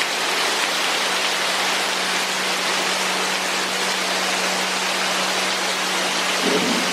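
Heavy rain pouring down steadily, an even hiss of rain hitting surfaces, with a faint steady low hum underneath.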